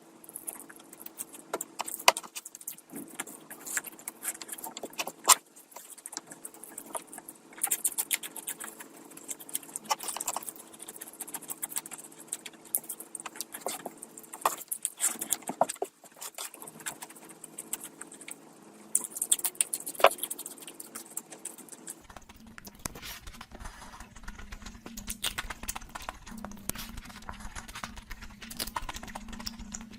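Close-miked eating sounds: chewing with wet mouth clicks and smacks, in irregular bursts. About two-thirds of the way through, the background tone changes abruptly, and the chewing continues.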